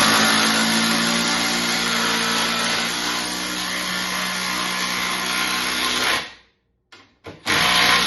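Milwaukee M12 FUEL impact driver with a socket, driving a fastener into wood in one steady run of about six seconds that cuts off sharply. After a brief blip it starts again about a second and a half later.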